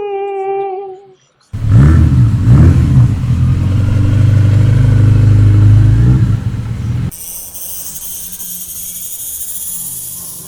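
Horror sound effects in sequence: a held humming note dies away, then after a brief silence a loud low rumble lasts about five seconds, followed by a thin, high-pitched shrill tone.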